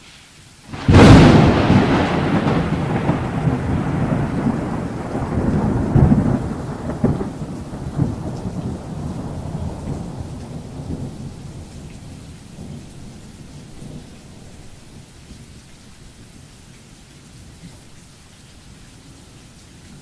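A loud thunderclap about a second in, its rumble rolling on and slowly dying away over some ten seconds, over a heavy downpour of steady rain.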